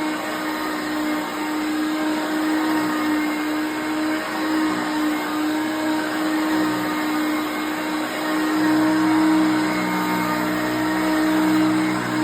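Late-1980s Hoover Concept One self-propelled upright vacuum cleaner running, a steady motor drone; a deeper hum drops back and returns strongly about eight seconds in.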